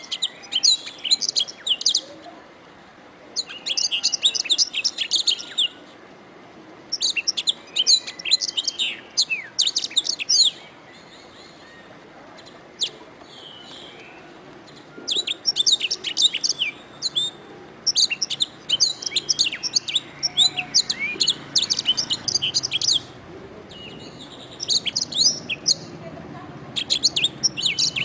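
Domestic canary singing in fast, high trilled phrases of one to three seconds each, separated by short pauses, with a longer pause about midway.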